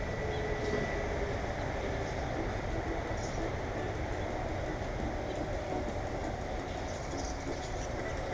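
Steady low rumble and hiss, with a few faint, short, high bird chirps.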